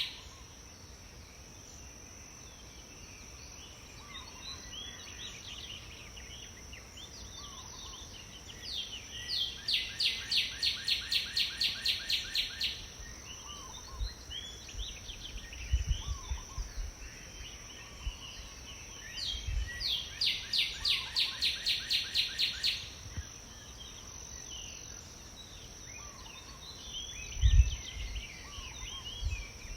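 Songbird singing: twice a trill of evenly repeated notes, about four a second for some three seconds, with short chirps from other birds in between. A steady high-pitched tone runs underneath, and there are a few low thumps.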